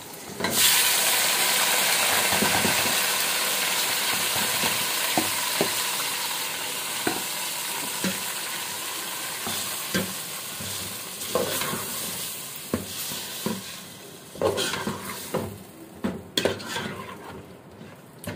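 Yogurt-marinated chicken dropping into hot oil and browned onions in an aluminium pot: a loud sizzle starts suddenly about half a second in and slowly dies down. A metal spoon stirring and scraping the pot clinks against it throughout, more often near the end.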